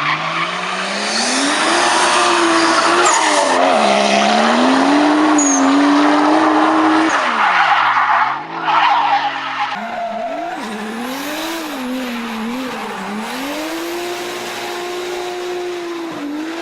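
Big-turbo Toyota Supra engine revving hard, its pitch rising and falling again and again over a haze of tyre squeal. About ten seconds in the sound changes suddenly and then goes on a little quieter.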